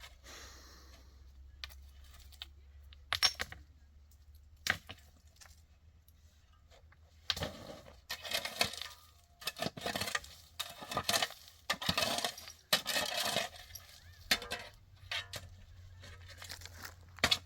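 Scattered clicks and clinks of objects being handled, then from about seven seconds in a run of irregular scraping, rustling strokes that stops about fourteen seconds in.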